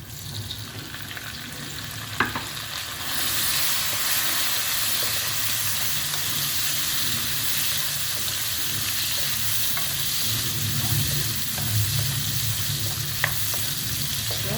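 Tomatoes, small onions and garlic sizzling in gingelly oil in a pan while being sautéd and stirred; the sizzle gets louder about three seconds in, with a few sharp taps of the utensil against the pan.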